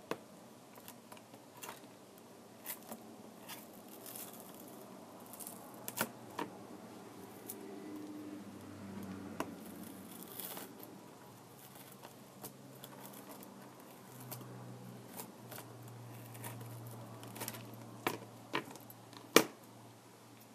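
Scattered small clicks, taps and crinkling rustles of hand tools and parts being handled while a Kindle Fire tablet is taken apart, with one sharper click near the end. A low steady hum runs underneath.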